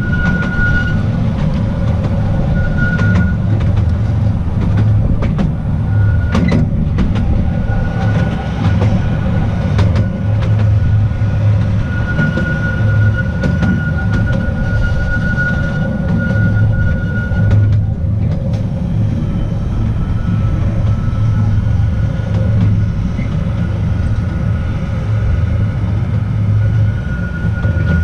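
The Petit Train d'Artouste, a narrow-gauge electric mountain railway, running along the track with a steady low rumble of wheels and cars. A thin high-pitched tone comes and goes, and there are a few sharp clicks in the first third.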